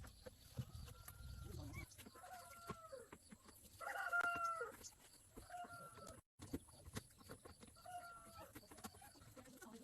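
Chickens clucking: a series of short, repeated calls, the loudest about four seconds in.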